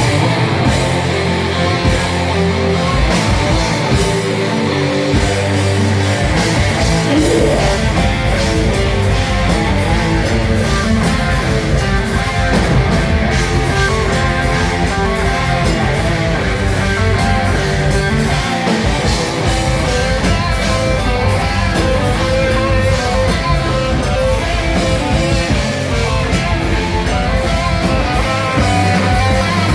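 Live rock band playing loudly: electric guitars over bass and drums, with drum hits throughout.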